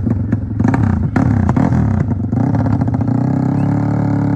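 Motorcycle engine revving, its pitch rising and falling, then held at a steady high rev from about halfway through.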